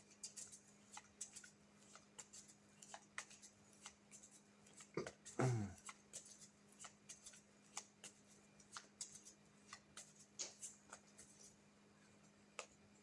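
Faint, scattered clicks and taps of tarot cards being handled, over a steady low hum. About five seconds in there is one brief falling voice-like sound.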